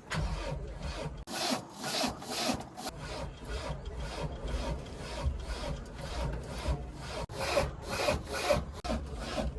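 Rhythmic rasping, scraping strokes, about two a second, over a steady low rumble.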